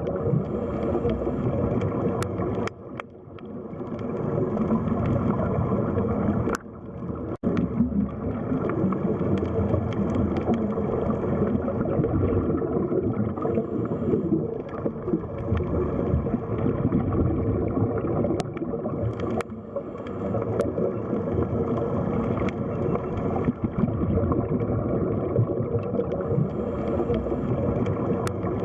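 Underwater sea ambience: a steady, muffled rush of water that dips briefly twice in the first seven seconds.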